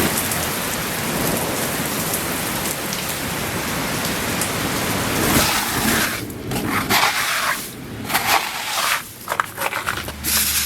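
Heavy hail and rain pelting down in a dense, steady rush, breaking up from about six seconds in into irregular gusts and separate hailstone impacts.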